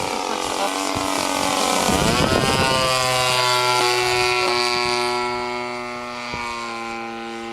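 Light aircraft's engine and propeller running at high power during takeoff. The engine note drops in pitch about two seconds in, then holds steady.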